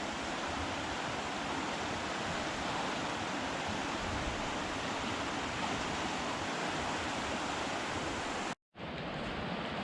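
Steady rush of a rain-swollen river flowing around a kayak. The sound drops out suddenly for a moment near the end, then resumes.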